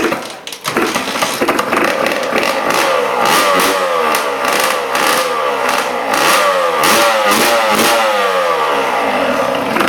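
1992 Honda NSR150's two-stroke single engine catching about a second in, then revved up and down repeatedly, its pitch rising and falling with each blip of the throttle.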